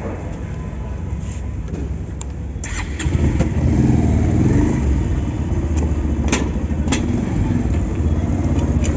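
Motorcycle engine running, growing louder about three seconds in and staying up, with two sharp clicks a little past the middle.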